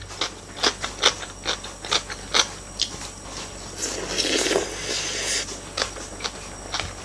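Close-miked eating sounds: chewing with many small wet clicks, and a louder, noisier stretch about four seconds in as another mouthful goes in.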